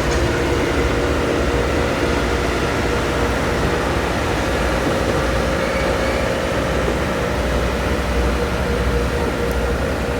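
A train running with a steady low rumble and a constant hum, with no breaks or changes.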